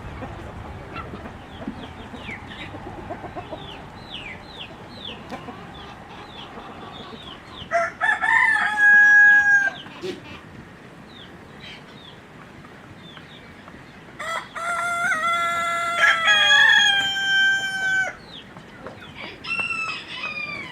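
A rooster crowing, first about eight seconds in and again, longer, from about fourteen seconds, with a shorter call near the end. Behind it a flock of chickens clucks and chirps throughout.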